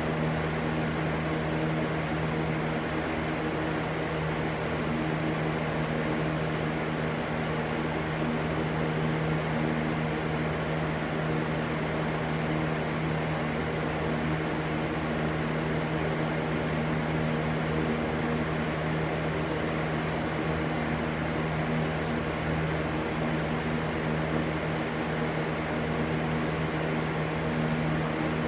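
Electric fan running steadily: an even rushing noise with a constant low motor hum.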